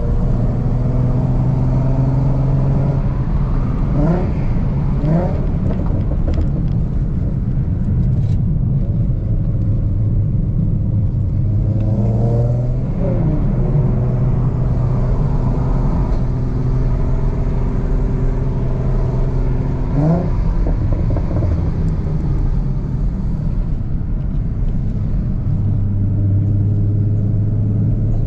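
Ford Mustang V6 running through a Roush aftermarket exhaust while being driven: a steady, low exhaust drone. Revs rise briefly a few seconds in and again about two-thirds of the way through, and fall away near the middle.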